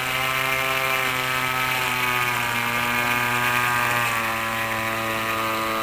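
Radio-control seaplane's model airplane engine running steadily at high throttle, a high, even buzz from the engine and propeller.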